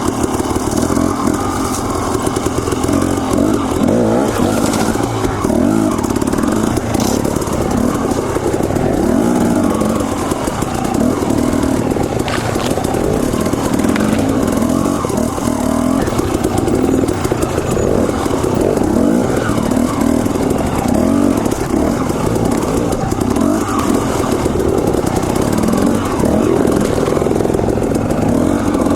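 Husqvarna TE250 two-stroke dirt bike engine running on the trail, its revs rising and falling continuously as the throttle is worked.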